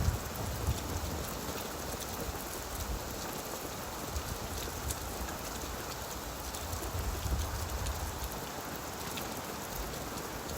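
Steady rain falling on leaves, a dense even patter with scattered individual drops, under a low rumble that swells and fades about seven seconds in.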